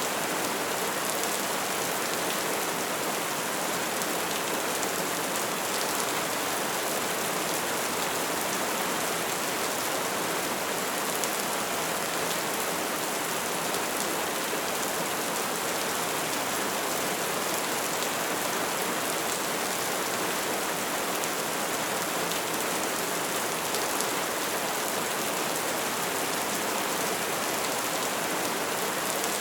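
Bonfire burning with a steady hiss of flames and scattered faint crackles.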